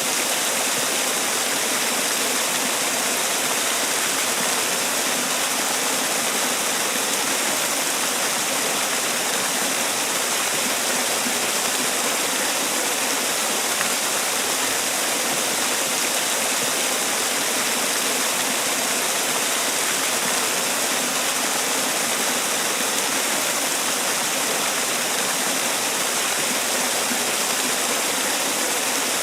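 Man-made waterfall: water falling and splashing in a steady, even rush with no breaks or changes.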